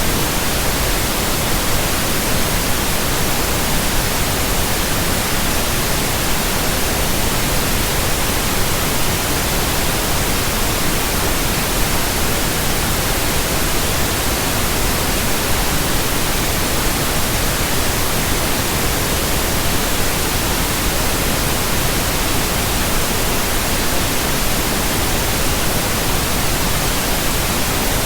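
Steady synthetic pink noise: an even, unchanging hiss spread evenly across the whole range, with no change in level.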